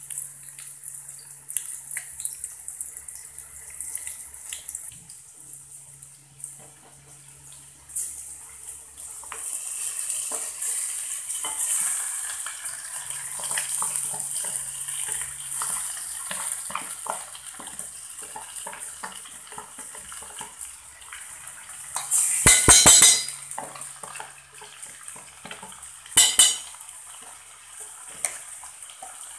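Marinated chicken sizzling in hot mustard oil and fried onions in a steel pot, with a metal ladle scraping and stirring; the sizzle builds up as the chicken goes in. A cluster of sharp knocks on the pot comes about three quarters of the way through, and one more a few seconds later.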